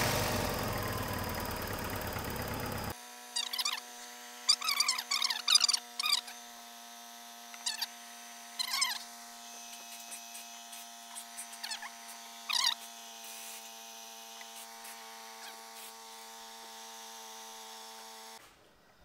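Volkswagen Polo 6N engine running just after being started, to push leftover water out of the freshly opened cooling system. It cuts off abruptly about three seconds in, giving way to a steady hum with a few short high chirps over it.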